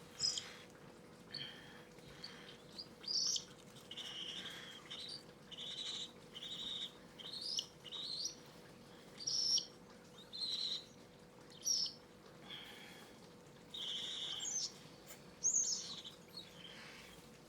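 Cockatiel chicks calling: a string of short, high chirps and raspy squawks, about one a second, some rising in pitch.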